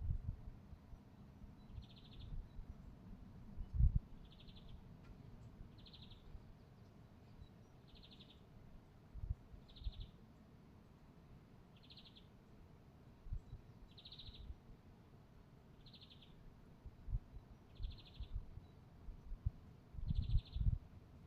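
A songbird repeating a short, finely trilled high call about every two seconds, over intermittent low rumbles.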